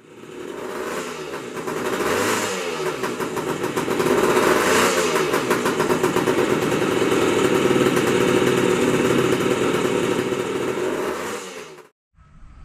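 Honda CA160 Benly's small air-cooled parallel-twin four-stroke engine running, revved up and back down a couple of times, then held at a fast steady run before cutting off abruptly near the end.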